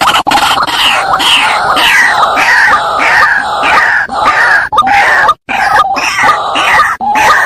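White-breasted waterhen (ruak-ruak) calling: loud, harsh notes repeated about twice a second, each falling in pitch, with a brief break about five seconds in.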